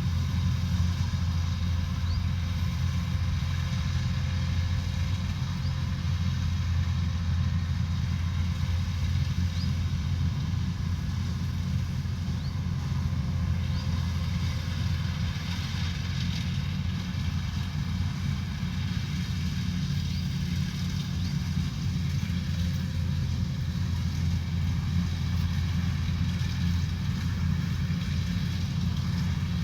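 Combine harvester's diesel engine running steadily, a constant low drone with no change in speed.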